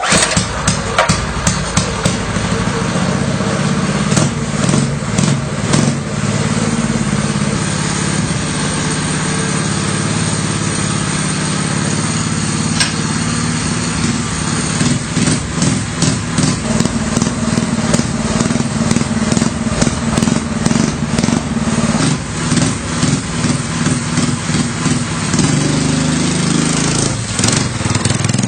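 The 200cc engine of a homemade motorcycle running. It starts abruptly, then runs steadily, with the revs rising and falling repeatedly in the second half.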